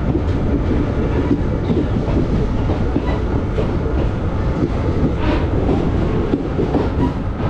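ICF passenger coach rolling on the rails as the train pulls into a station: a steady, loud rumble of wheels on track with clickety-clack over the rail joints.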